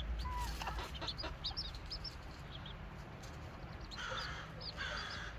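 Serama bantam chickens clucking and calling, with many short high chirps throughout and two louder calls about four seconds in.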